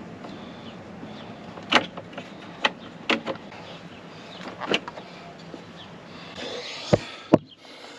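Scattered clicks and taps of small metal parts being worked in a semi truck's door handle and latch, ending in two sharper knocks close together near the end.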